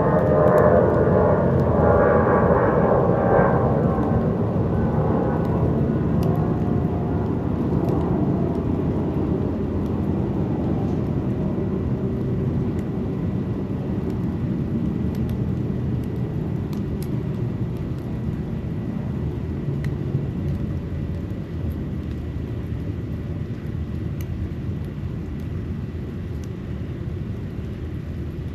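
Aircraft passing, a low rumble with a whine that fades in the first several seconds, the rumble then slowly dying away.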